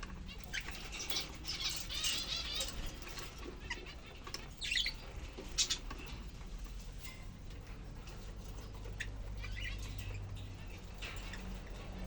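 Lovebirds flapping and rustling, with a few short, shrill high calls about five seconds in, over a steady low hum.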